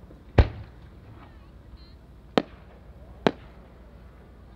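Aerial firework shells (5-gou, about 15 cm) going off: a deep boom with a short rumble about half a second in, then two sharp cracks about a second apart.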